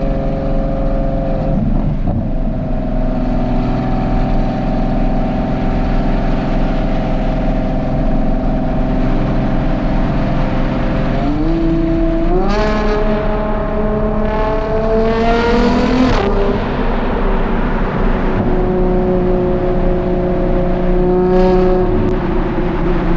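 Ferrari Purosangue's naturally aspirated V12 through a Novitec race exhaust, running at steady revs, then a step up in pitch about eleven seconds in and revs climbing hard under acceleration before dropping abruptly at a gear change. It settles to steady running, with a short rise in revs near the end.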